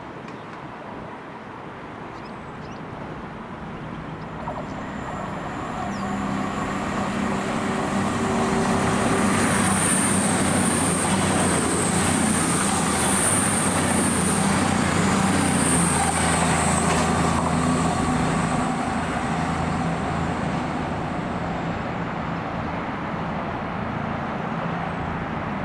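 A train passing on the main line. A steady low engine drone builds over the first several seconds and is loudest in the middle, with a high whine above it. It then eases a little but carries on.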